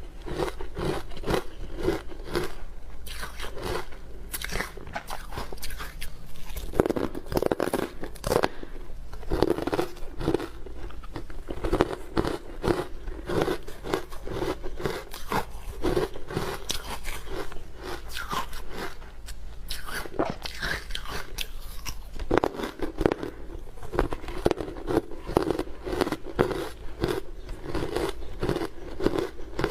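Hard frozen matcha ice being bitten and chewed close to the microphone: dense, continuous sharp crunching and crackling with no pauses.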